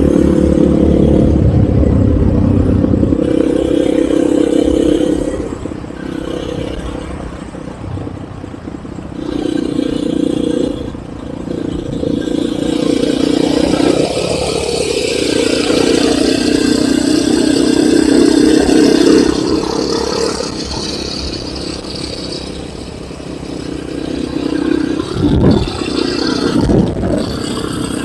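Enduro motorcycle engine running under changing throttle while riding off-road, the revs rising and falling again and again. There are a couple of brief knocks near the end.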